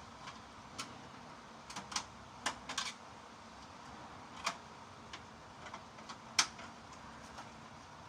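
Metal fluorescent light housings being handled and stacked: a dozen or so light clicks and knocks at irregular intervals, with the sharpest knock about six seconds in.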